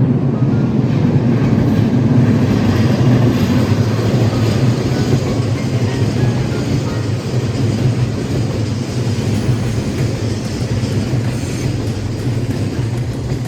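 A train passing close by on the track, its wheels and running gear rumbling steadily, the sound easing slowly toward the end as it moves away.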